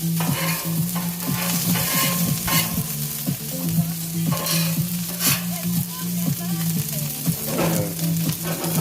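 Chicken patties and string beans sizzling on a hot flat-top griddle, with a utensil repeatedly scraping and tapping the cooking surface as the food is stirred and turned. A steady low hum runs underneath.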